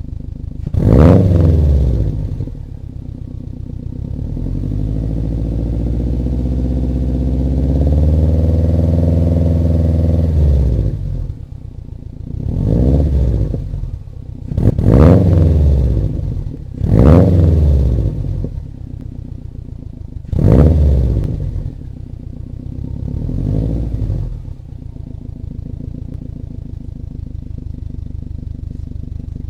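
2011 Subaru STI's turbocharged 2.5-litre flat-four, breathing through a COBB catted downpipe and Invidia Q300 exhaust, being revved from idle. A sharp blip comes about a second in, then a longer rev held and slowly climbing for several seconds. Five short blips follow before it drops back to a steady idle.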